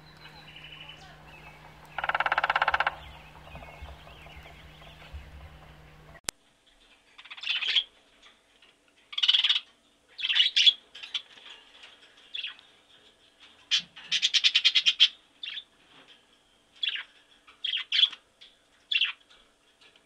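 Great spotted woodpecker drumming once, a rapid burst of about a second, over a low steady hum. After an abrupt change of sound, a run of short, sharp bird calls and chirps follows, with another rapid rattling burst near the middle.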